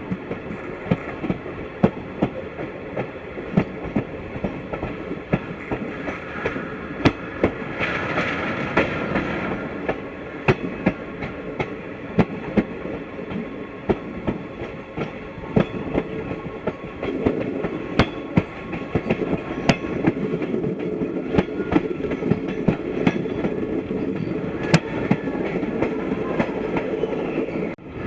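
Passenger train coaches rolling along the track, the wheels clicking over rail joints again and again above a steady rumble.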